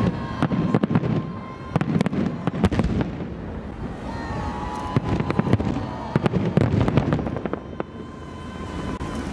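Fireworks display: many rapid, overlapping bangs and crackles of aerial shell bursts over a continuous low rumble.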